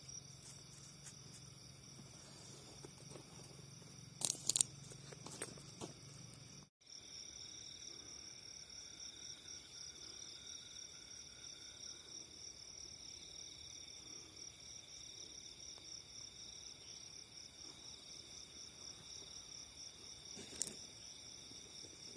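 Steady chorus of crickets and other insects, several high, even trills layered together. A few sharp clicks come about four to five seconds in and once near the end, and the sound cuts out for an instant just before seven seconds.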